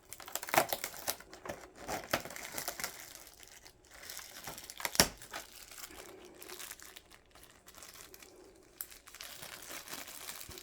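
Packaging of a small advent-calendar gift being opened and handled: crinkling and tearing with scattered clicks. There is one sharp click about five seconds in, and quieter rustling after it.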